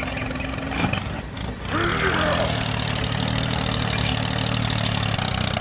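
Small motor of a miniature DIY tractor running steadily. It drops off briefly about a second in, then settles into a steady low hum.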